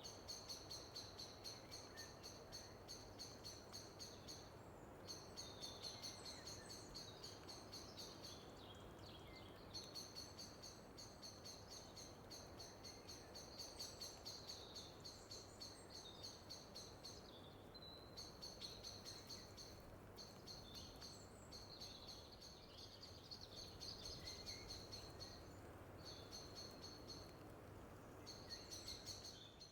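Faint outdoor ambience: a high, rapid pulsing trill from a small animal, repeating in runs of a few seconds with short breaks, over a low steady hiss.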